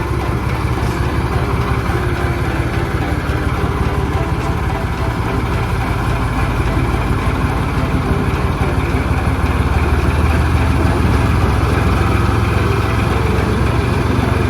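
Diesel locomotive engine running steadily with a deep rumble, growing a little louder about eight seconds in.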